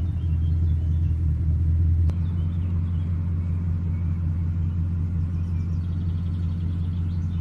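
Bugatti Chiron's quad-turbocharged 8.0-litre W16 engine idling steadily just after start-up, heard from inside the cabin as an even, low note.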